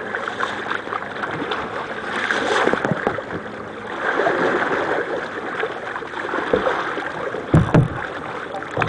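Water sloshing, splashing and dripping around a sea kayak, with two low thumps close together near the end.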